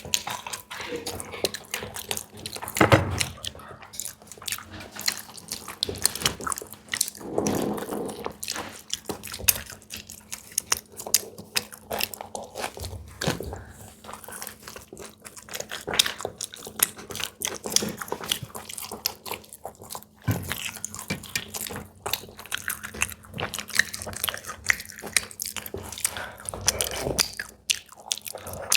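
Close-up eating sounds: people biting into and chewing fried samosas and litti, with many small crackles and crunches.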